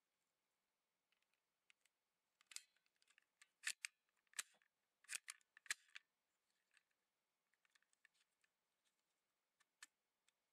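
Sharp plastic clicks and snaps from a toy pine cone Lockseed being handled, with a cluster of about six louder clicks in the middle and faint scattered ticks around them.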